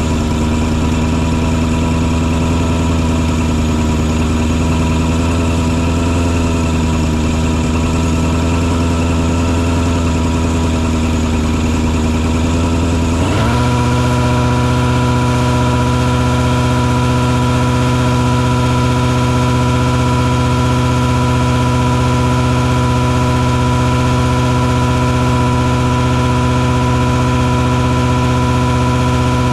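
Engine of a mosquito-fogging truck and its sprayer running steadily. About 13 seconds in, the engine speed briefly rises and settles at a slightly higher, steady pitch.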